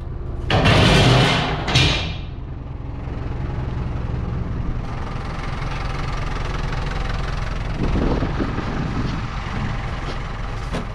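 Truck engine idling steadily with a low hum. Within the first two seconds there is a loud clatter of scrap metal being loaded.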